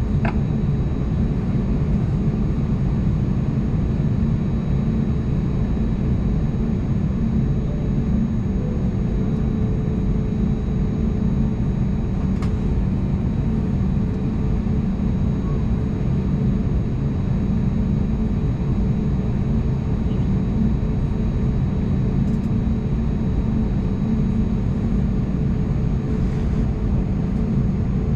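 Steady cabin drone inside an Airbus A320neo airliner, from its CFM LEAP-1A engines and the airflow past the fuselage: a deep, even rumble with a faint constant hum above it.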